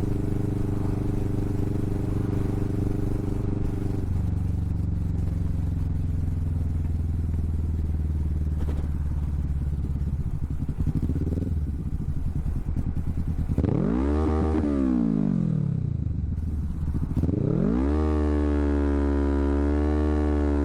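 Kawasaki Vulcan S parallel-twin engine running through a Hoonk twin aftermarket exhaust while riding: it runs steadily, drops in pitch a few seconds in, and rises and falls in revs about two thirds of the way through. Near the end it climbs again and holds steady.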